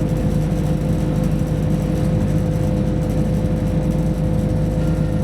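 Class 172 diesel multiple unit running along the line, heard from inside the carriage: a steady underfloor engine and transmission drone with a constant low hum and a higher whine.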